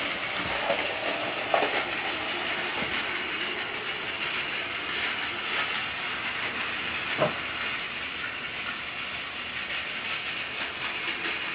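Battery-powered toy train running along plastic track: a steady whirring rattle, with a couple of light clicks.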